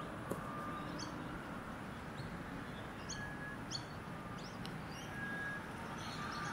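Birds chirping: short high chirps every second or so, with a few brief whistled notes, over a low steady outdoor background.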